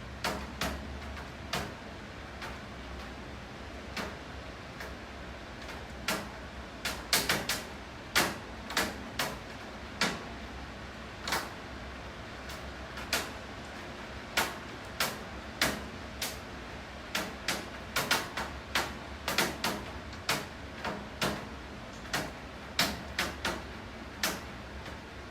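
Rain: irregular sharp drips tapping on a hard surface over a steady rain hiss and a low hum, coming more often from about six seconds in.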